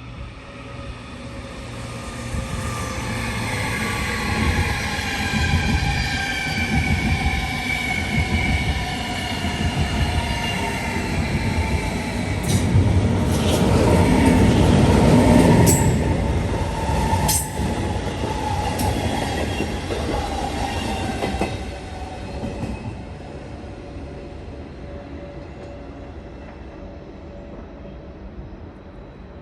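Electric train passing at the platform, several whining tones sliding slowly down in pitch. It grows louder to a peak a little past the middle, with a few sharp clicks and squeals, then fades.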